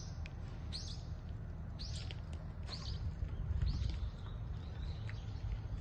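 A bird calling: a short chirp that falls in pitch, repeated about once a second, over a steady low rumble.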